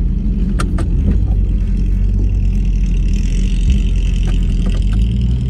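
Vehicle engine running steadily, heard from inside the cabin, its pitch stepping up about five seconds in as it is given more throttle.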